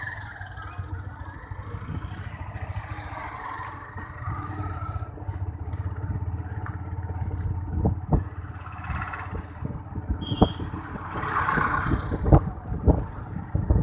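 A vehicle running with a steady low rumble, joined in the second half by a series of sharp knocks and clatter and some rushes of noise.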